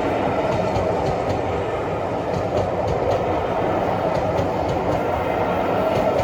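Train hauled by an LMS Black Five steam locomotive running along the track: a steady, even rumble of rolling stock with light clicks from the wheels on the rails.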